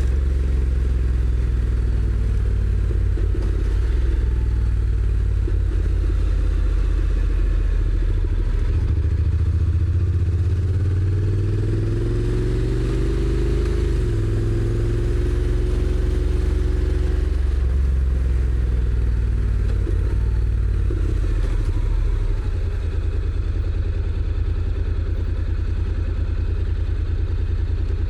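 Honda NC750X's parallel-twin engine running on the move, heard from the rider's seat. It rises in pitch from about ten seconds in, drops sharply at a dual-clutch upshift around fourteen seconds, and settles into a lower, pulsing rumble near the end.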